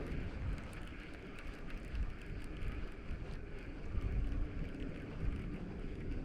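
Wind buffeting the microphone in gusts: an uneven low rumble that rises and falls.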